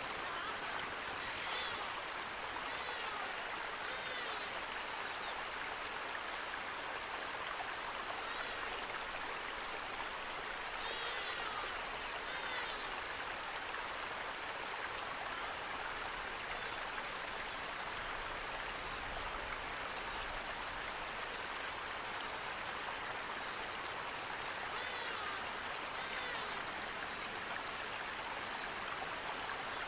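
Flowing water rushing steadily, with a few short bird chirps in small clusters over it.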